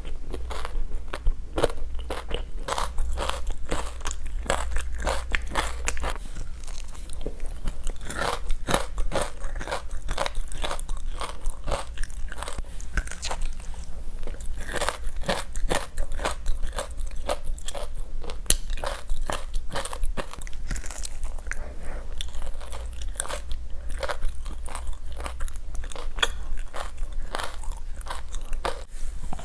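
Close-up biting and chewing of frozen creamy matcha ice chunks with buckwheat seeds: a continuous run of sharp crunches and crispy pops.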